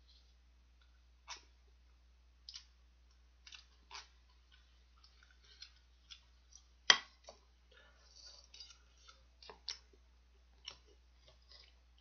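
A person chewing a final mouthful of stir-fried instant noodles: scattered quiet wet mouth clicks and smacks, with one sharp, louder click about seven seconds in.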